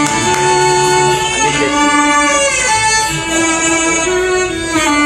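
A band playing the instrumental intro of a song, with a melody of long held notes, some of them bending in pitch.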